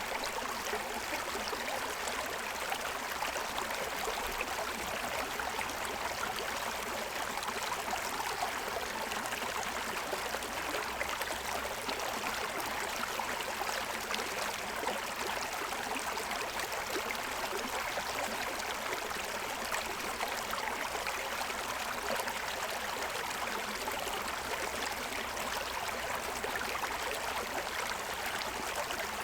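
A stream running steadily over a stony riverbed, with an even splashing and gurgling rush of water.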